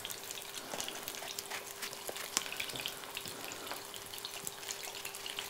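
Eggplant pieces sizzling in hot olive oil in a frying pan, a steady fine crackle, with an occasional knife tap on a cutting board as more eggplant is sliced.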